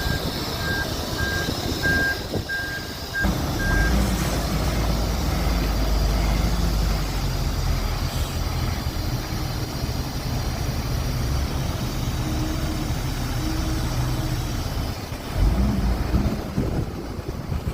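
Backup alarm of the offloading machinery beeping about once a second for the first four seconds, then a heavy diesel engine running steadily under load, with a couple of louder surges near the end.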